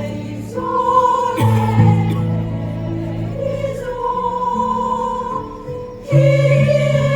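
A choir singing in harmony, holding long chords that change every second or two; the singing drops briefly and comes back louder about six seconds in.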